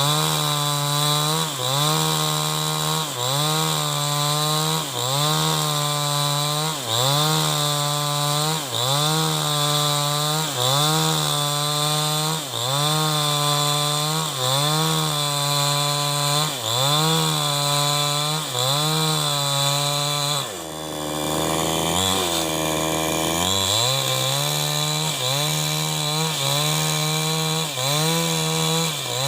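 New West 788 chainsaw running at high speed and ripping wood lengthwise. Its note sags and recovers about once a second as the bar is worked through the cut. About two-thirds of the way through, the engine speed drops for about three seconds and then picks back up.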